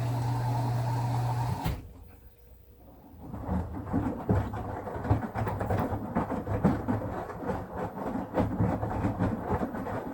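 Midea HealthGuard Smart 13 kg front-loading washing machine during its wash: a steady hum that stops abruptly a little under two seconds in, then the drum turning wet laundry with irregular sloshing and thudding.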